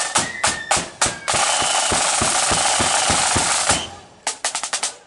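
Marching flute band's drums: steady beats, then a long snare drum roll over evenly spaced bass drum strokes, which stops suddenly about four seconds in. A few quick light drum taps follow near the end, and a high flute note or two sounds briefly at the start.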